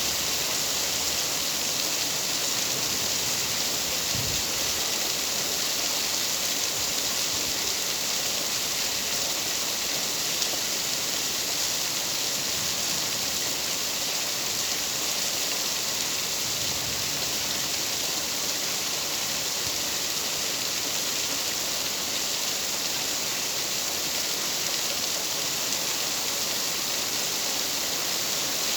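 Steady rain falling: a constant, even hiss with no thunder or other breaks.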